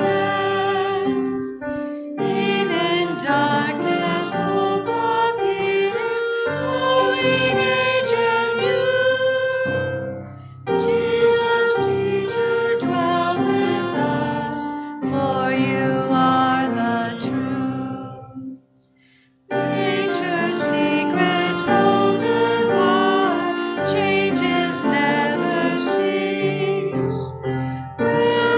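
Church music: a singer with vibrato over instrumental accompaniment, in phrases broken by a brief near-silent pause about two-thirds of the way through.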